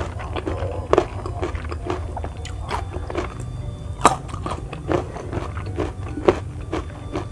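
Close-miked crunchy chewing and biting of raw vegetables: irregular crisp crunches, a few of them louder, over a low steady background hum.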